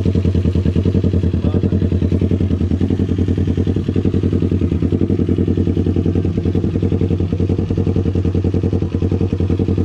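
Motorcycle idling steadily through an Arrow full-system aftermarket exhaust, with an even, fast low putter and no revving.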